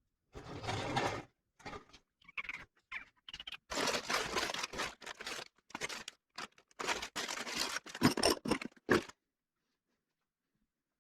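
Workshop handling noises: an irregular run of clicks, knocks and scrapes from parts and tools being handled, stopping abruptly about nine seconds in.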